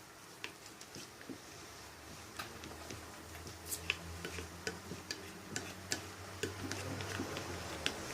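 Irregular light clicks and taps of a spoon knocking against the bowl while slime is stirred, with a faint low hum in the middle.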